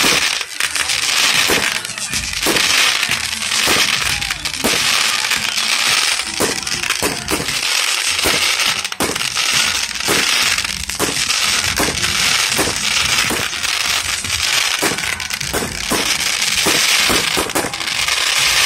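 Aerial fireworks going off in a dense, continuous barrage: rapid booms overlapping with a steady crackle.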